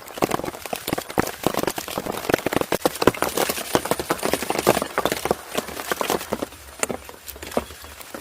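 Dense, irregular tapping and knocking, several sharp taps a second, thinning out near the end.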